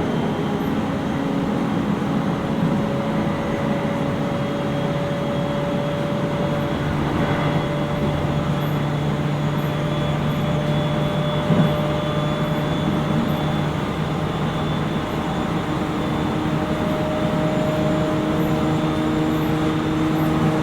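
Interior running sound of a JR East 701 series 5500 sub-series electric train car under way: a steady rumble of wheels on rail with several humming motor tones that drift slowly in pitch. A single sharp knock sounds about halfway through.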